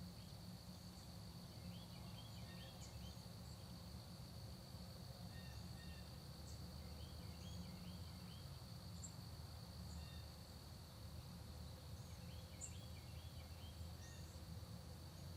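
Faint early-morning countryside ambience. Insects keep up a steady high drone, and a songbird sings a short run of repeated notes three times, about five seconds apart, with scattered high chips from other birds. A low steady rumble lies underneath.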